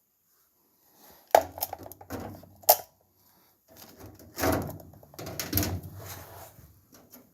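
Hands working on furnace parts: two sharp clicks or knocks, then a longer stretch of rustling and scraping.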